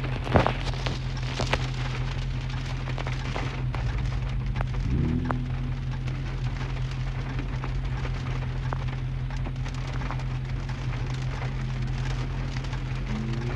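Rain pattering on a moving car, heard from inside the cabin through a phone microphone, with scattered sharp drop taps over a steady low engine and road hum.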